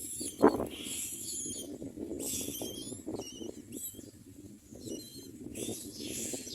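Common mynas at the nest giving high-pitched calls in short repeated bursts, some with wavering notes, over a low scratchy background. There is a sharp thump about half a second in.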